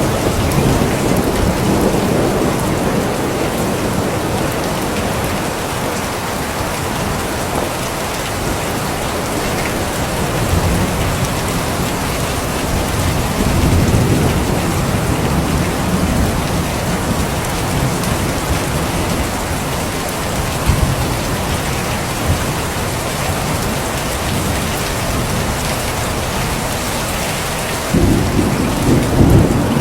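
Steady rain with thunder rumbling: low rolls swell near the start and about halfway through, and a sharper rumble breaks in near the end.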